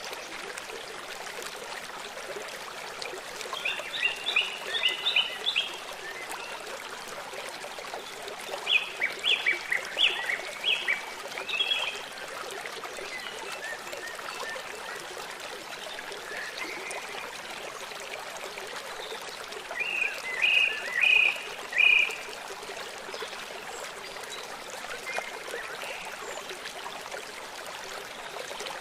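Steady rush of a flowing river, with a bird singing short bursts of rapid repeated high chirps three times, a few seconds apart.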